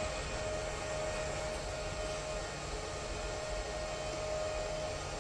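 Steady running noise of a repaired LS SV055FP5-4 inverter drive on test: an even whir and hiss with a thin steady tone that breaks off now and then.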